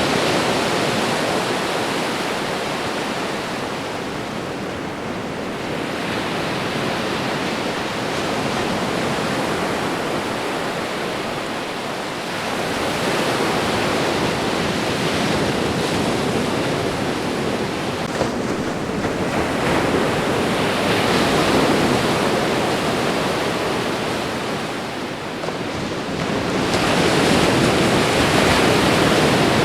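Ocean waves washing onto a shore: a continuous rushing surf that swells and eases in slow surges every several seconds.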